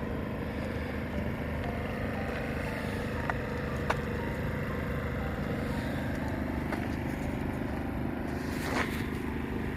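An engine running steadily at an even idle, with two light clicks in the middle and a short hiss near the end.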